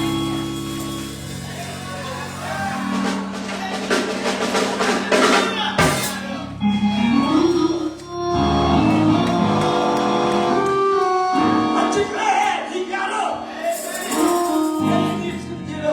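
Live church music after the sermon's climax: drums and held chords played under voices singing and calling out.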